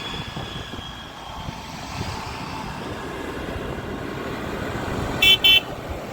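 Tractor engines running steadily, with two short horn beeps close together about five seconds in.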